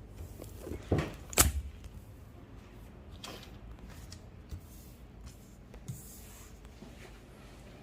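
Objects being handled on a table: two sharp knocks about a second in, then a softer rustle and a few faint clicks.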